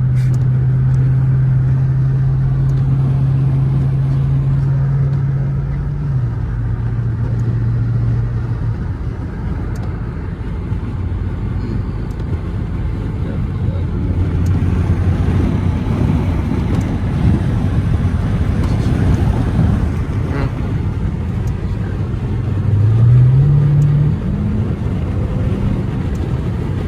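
Dodge Charger R/T's 5.7-litre HEMI V8 drone heard inside the cabin while driving, over road and tyre noise. The engine note drops twice in the first third, then rises quickly near the end as the car accelerates before settling again.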